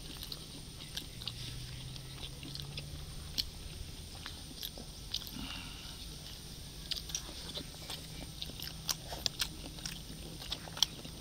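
Close-up chewing and biting as people eat pork sisig with rice: wet mouth clicks and small crunches scattered irregularly throughout.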